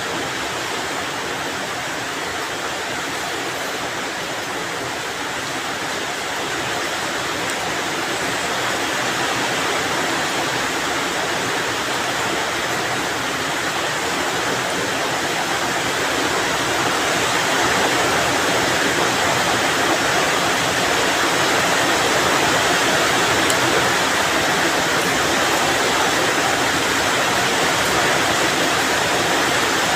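Rain falling steadily, a dense, even hiss that grows somewhat louder after about fifteen seconds.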